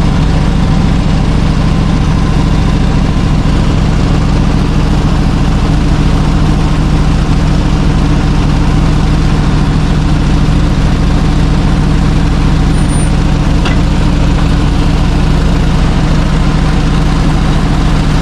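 Chevrolet C60 wrecker's engine idling steadily, an even low running note with no change in speed.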